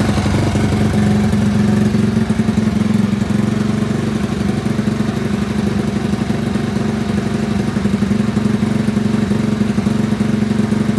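Honda Chaly 50 (CF50) small single-cylinder four-stroke engine idling steadily after starting, easing down from a slight rev to an even idle within the first second or two.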